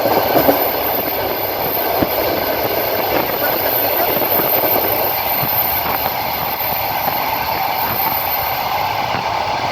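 Train running along the line, heard from inside the carriage by the window: a steady rumble of the wheels on the rails, with a few single knocks of the wheels.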